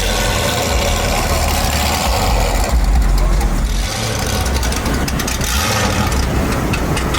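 A vehicle engine idling, with people talking in the background.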